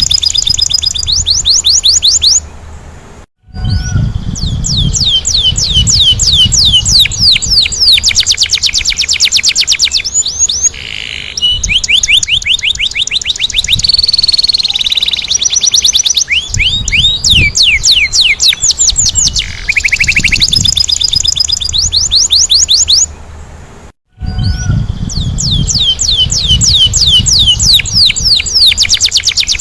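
A domestic canary singing a long, loud song of rapid rolling trills: fast runs of repeated, steeply falling high notes, with a few sustained piercing notes. The song cuts out sharply for a moment twice, about three seconds in and again about twenty-four seconds in.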